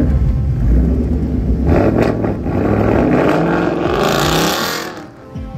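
Ford Mustang GT's 5.0-litre V8 accelerating away, its exhaust note climbing in pitch through the revs from about two seconds in, then fading near the end as the car moves off.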